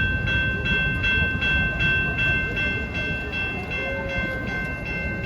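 Railway crossing bell ringing rapidly, about four to five strikes a second, over the low rumble of a train.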